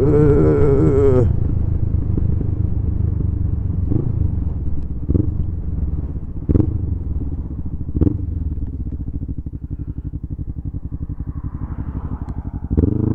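Kawasaki ER-5 500cc parallel-twin motorcycle engine heard from the saddle: running under way with a few short knocks, settling to an even, pulsing idle about nine seconds in, then revving up again near the end.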